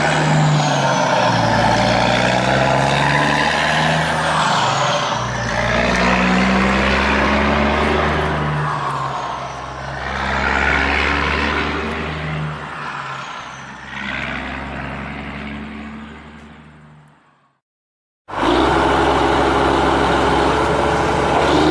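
A vehicle engine running, its pitch rising and falling as it revs. It fades away to silence about seventeen seconds in, then cuts back in abruptly about a second later.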